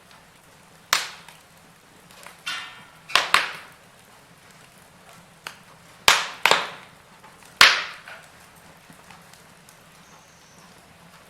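Wood fire crackling in a fireplace: several sharp pops and snaps at irregular intervals, with a short run of fine crackle among them, over a faint low background hum.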